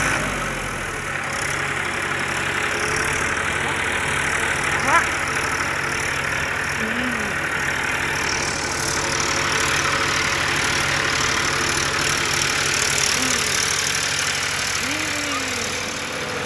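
Tractor diesel engine running steadily, with a brief sharp sound about five seconds in.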